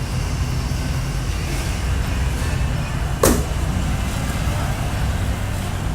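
Steady low rumble of motor vehicles running, with one sharp click about three seconds in.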